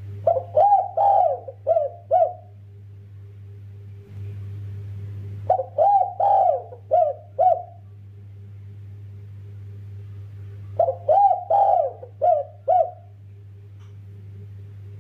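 Spotted dove (derkuku) cooing: three phrases of about five notes each, a few seconds apart, over a steady low hum.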